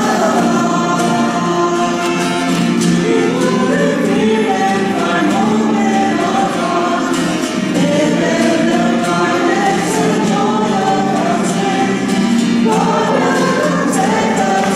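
Choir singing a gospel-style song, loud and unbroken.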